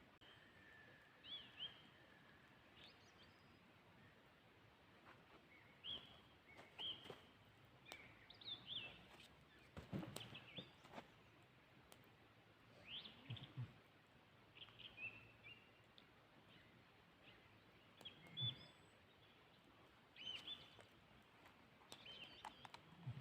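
Faint small-bird chirps, short calls repeated every second or so over a quiet background, with a few soft knocks.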